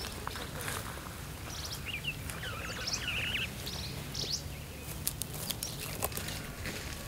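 Outdoor ambience with a steady low background rumble and short, high bird chirps and trills, busiest around the middle. A few sharp clicks come in the second half.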